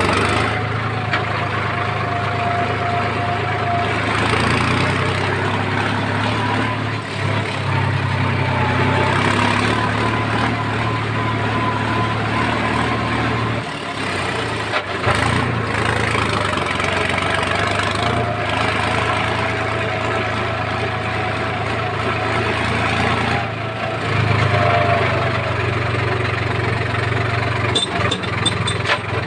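Heavy diesel machinery engine running steadily. Its note shifts up and down as the load changes, and it drops briefly twice, about halfway through and again about three quarters in.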